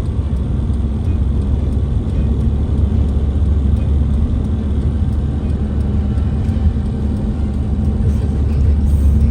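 Vehicle driving at steady speed: an even, low road and engine rumble.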